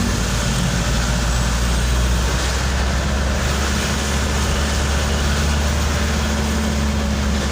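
Steady noise of a vehicle being driven on a wet road in light drizzle: a constant low engine and road rumble under an even hiss.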